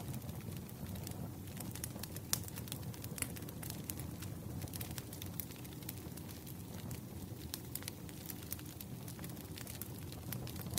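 Campfire burning: a steady low rumble of flames with frequent irregular sharp crackles and pops of burning wood, a couple of them louder.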